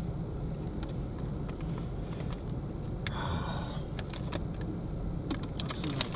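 Car engine idling, heard from inside the cabin as a steady low hum. A short rustle comes about three seconds in, and a run of small clicks and taps near the end.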